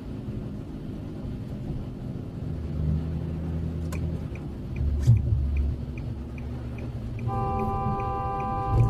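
Car engine and road rumble, with a faint regular ticking about twice a second. A car horn starts sounding about seven seconds in and is held steady.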